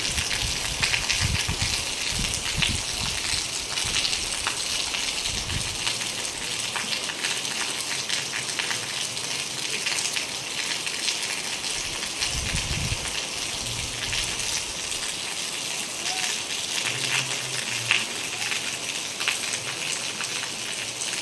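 Heavy rain falling steadily on leafy plants and puddled ground, a continuous hiss, with a couple of brief low rumbles about a second in and again about halfway through.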